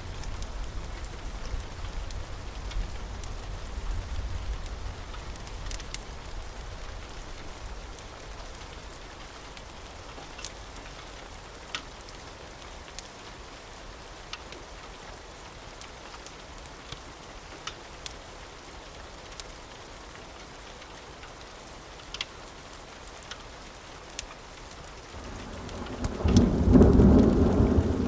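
Steady rain with scattered sharp ticks, under a low rumble of thunder that fades away over the first several seconds. About 25 seconds in, a loud roll of thunder builds up and is the loudest part.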